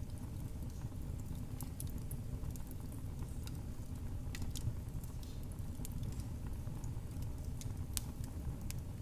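Wood fire in a fireplace crackling: scattered sharp snaps and pops over the steady low rumble of the flames, with one louder pop near the end.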